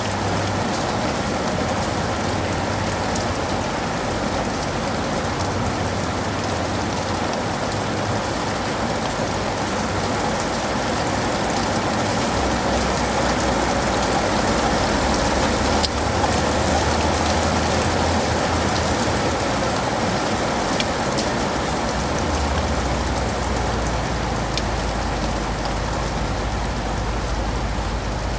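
Steady rain shower falling on leaves and pavement, a continuous hiss with individual drops ticking through it and one sharper tap about halfway through.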